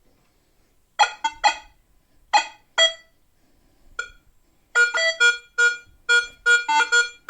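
Nokta Makro Legend metal detector on tone setting 6, giving short pitched target beeps as a coin is passed over the search coil. The beeps come in scattered groups at first, then in a quick run of repeated beeps in the second half.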